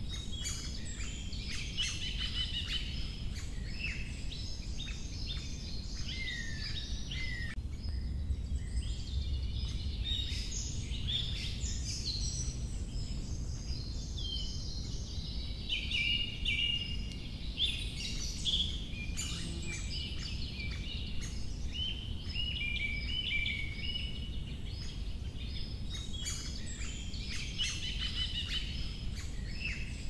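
Songbirds chirping and trilling in many short, overlapping calls, over a steady low rumble of outdoor background noise.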